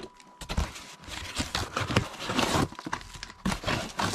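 Packaging being handled as a cordless drill set is unpacked: irregular rustling and crinkling with a few light knocks.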